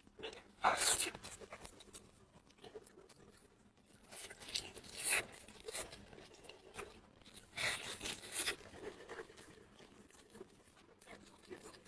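Close-miked eating sounds: crunchy, crackly bursts of biting and chewing, in three main bouts, about a second in, around four to five seconds in and around eight seconds in.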